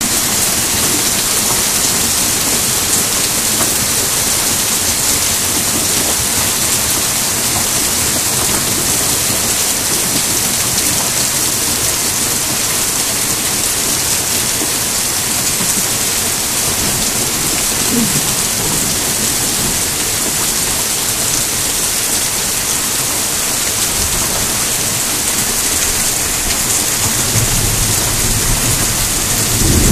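Hard rain pouring steadily onto a lawn, pavement and street, an even, unbroken hiss. A low rumble joins in near the end.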